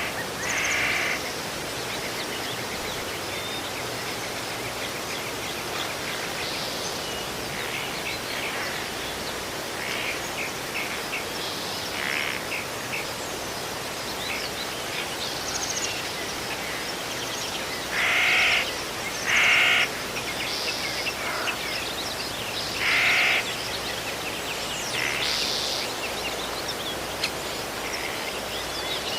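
Wild birds chirping and calling over a steady outdoor background hiss. A few louder, longer calls stand out about a second in, twice just past the middle and once more a few seconds later.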